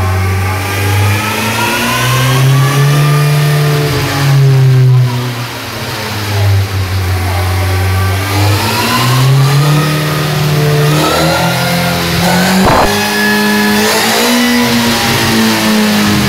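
Honda CBR sportbike engine running on a roller dynamometer in a warm-up run. The revs climb, drop back and climb again several times as the rear wheel drives the roller up to speed, with one sharp crack about three-quarters of the way through.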